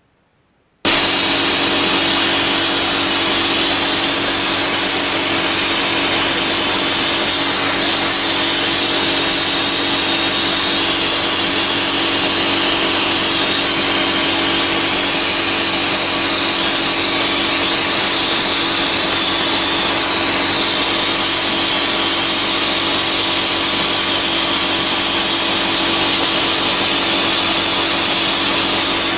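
Sandblaster nozzle blasting abrasive with compressed air: a loud, steady rushing hiss that starts abruptly about a second in and holds without a break, with a steady hum underneath.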